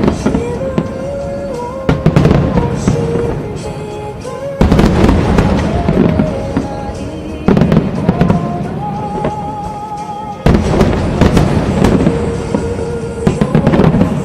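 Aerial firework shells bursting in a loud series, a heavy boom with crackle roughly every three seconds, over music with a slow, held melody.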